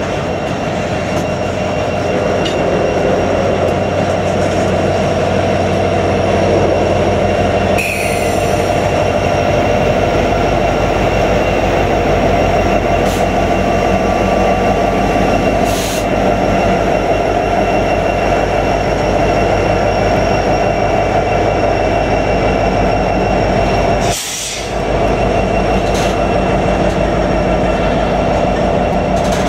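Slow freight train rolling through a grade crossing: steady rumble of wheels on rail with squealing flanges. Midway the Norfolk Southern 1066, an EMD SD70ACe diesel in New York Central heritage paint, passes working in the middle of the train.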